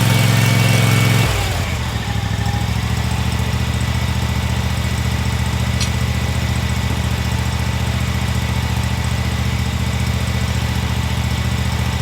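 Chinese mini excavator engine running at high revs, then dropping just over a second in to a lower, steady idle.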